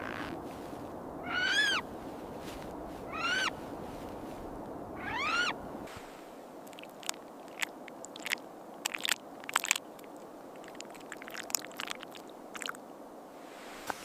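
A snowy owl giving three short calls about two seconds apart, each rising then falling in pitch. About halfway through, these give way to a run of sharp clicks and snaps.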